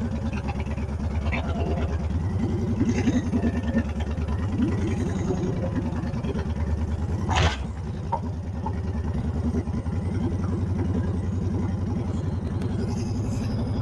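Honda Fury's 1312 cc V-twin with aftermarket pipes running at low revs, kept gentle while rolling out slowly over gravel. A single sharp click comes about halfway through.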